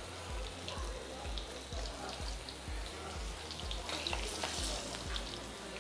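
Cassava pieces deep-frying in hot oil in a pot: a steady sizzle with scattered small crackles.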